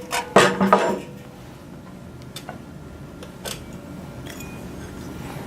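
Antenna dish parts being handled: a short clatter of knocks in the first second, then a few light scattered clicks as the unit is turned over and the feed is fitted into the dish.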